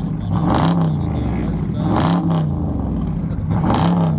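Parked car with a muffler-delete exhaust being revved three times in a row from idle, each blip rising and falling in pitch, about a second and a half apart.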